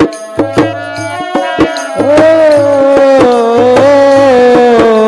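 Instrumental break in a devotional bhajan: hand-drum strokes for about two seconds, then a sustained melody line held over the beat.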